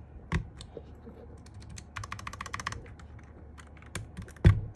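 Tactile mechanical keyboard switches clacking as keys are pressed, with a quick run of keystrokes about two seconds in and scattered presses after it. Two dull thuds, about a third of a second in and near the end, are the loudest sounds.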